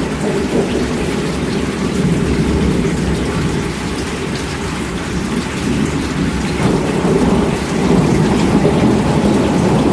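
Steady heavy rain with a low rumble of thunder, swelling louder about two-thirds of the way in.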